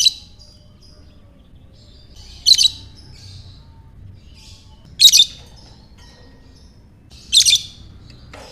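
Lovebird calling in short, loud, shrill chirps, repeated about every two and a half seconds.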